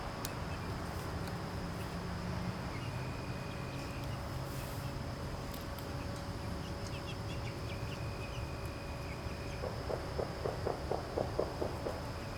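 Evening yard ambience with insects singing in a thin, steady, high tone. About two-thirds of the way in, the chickens give a quick run of short clucks, about four a second.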